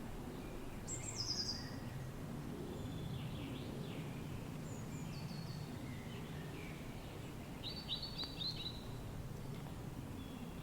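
Steady low rush of wind with wild birds singing over it in short phrases of high chirps, the loudest about a second in and a quick run of chirps about eight seconds in.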